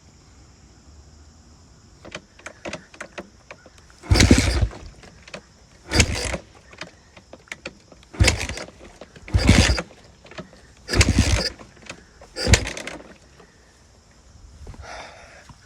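Kawasaki KX250F four-stroke dirt bike being kick-started about six times in a row, each kick spinning the engine briefly without it catching and running. This is the hard starting, unless warmed up, that the owner is asking about.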